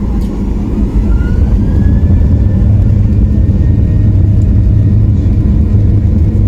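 Boeing 737-800's CFM56 jet engines heard from inside the cabin: a loud low rumble that swells about a second in and then holds steady, with a faint whine gliding upward.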